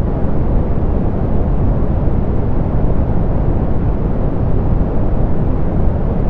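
Steady synthetic pink noise, softened so that most of its energy sits low and the top end is rolled off: an even rumbling hiss with no events or changes.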